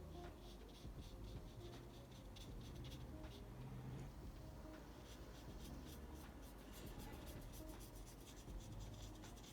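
Pencil scratching on drawing paper in quick, repeated short strokes, coloured or graphite pencil shading. Faint, over a low steady room hum.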